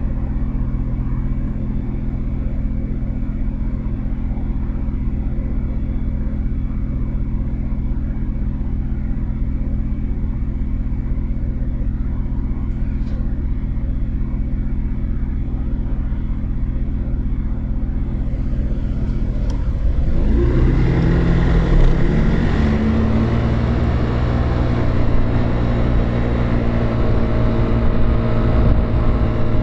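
Motorcycle engine idling steadily, then about twenty seconds in it revs up and the bike pulls away, with engine pitch climbing and wind and road noise rising.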